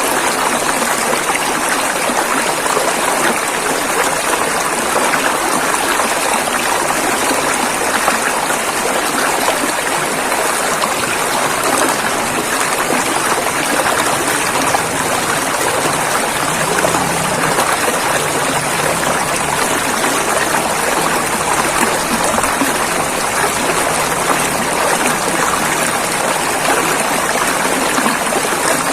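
Rushing river water flowing over rocks in a steady, unbroken splashing rush.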